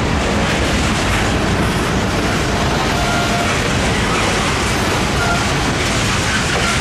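Freight train cars, loaded centerbeam flatcars and boxcars, rolling past with a loud, steady rumble of steel wheels on rail. A few short, faint squeals come and go about halfway through.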